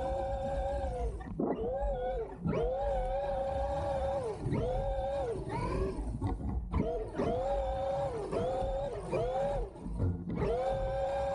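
Electric whine of a Traxxas X-Maxx 8S RC monster truck's brushless motor, held at a steady high pitch at speed, then dipping and rising again each time the throttle is eased and reapplied, about seven times, over a low rumble.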